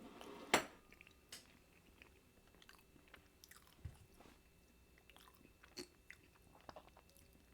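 A person chewing food close to the microphone: faint, irregular small clicks and mouth noises, with one sharper click about half a second in.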